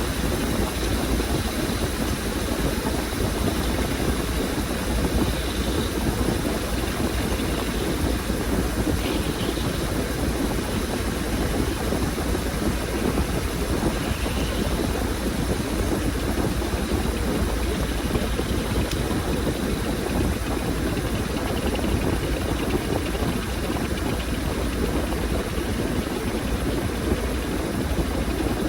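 Washing machine running through a load of laundry: a steady mechanical hum and rumble at an even level.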